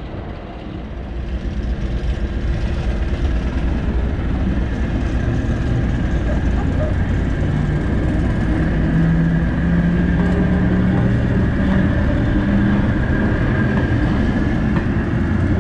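A train running on the heritage railway: a steady low rumble that grows louder about a second in, with a faint high whine over it.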